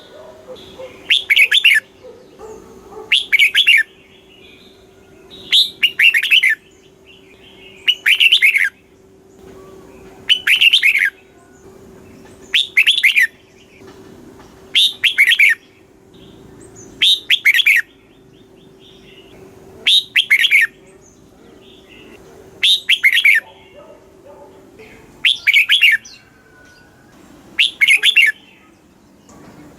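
Red-whiskered bulbul singing its loud, clear song, a short phrase repeated about every two to two and a half seconds.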